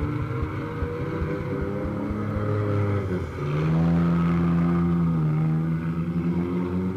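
Banger race car's engine heard from inside the cabin, running on the track; the revs dip about three seconds in, then rise and hold louder for a second or two before easing off.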